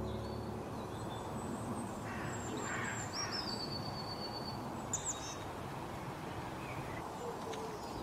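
Outdoor background hiss with faint, thin, high calls of small birds: a held whistle about three seconds in and a short sharp chirp about five seconds in.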